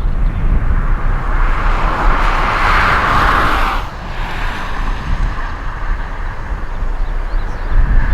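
Jet airliner engine noise swelling to a peak and then dropping off abruptly about four seconds in, over heavy wind buffeting on the microphone.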